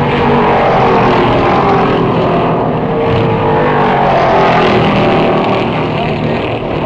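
Race car engines running on an oval track. Several engine notes overlap, their pitch slowly rising and falling.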